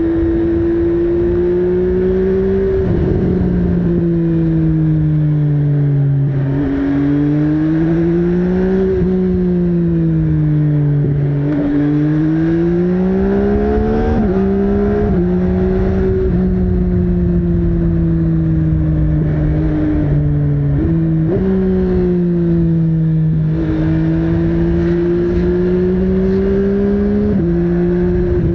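MV Agusta Brutale 800's three-cylinder engine pulling under way, its pitch climbing and falling with the throttle. The pitch jumps suddenly several times as gears are changed.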